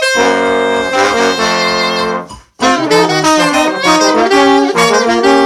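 A horn section of saxophones and brass playing a jazz soli in close harmony. It holds one chord for about two seconds, breaks off briefly, then moves through a run of changing chords.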